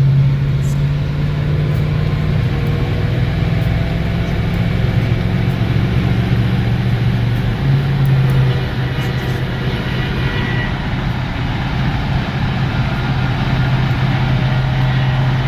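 In-cab drone of a 1941 International pickup with a 360 Plymouth V8 and three-speed automatic cruising at highway speed: a steady low engine and road hum that shifts slightly about seven or eight seconds in.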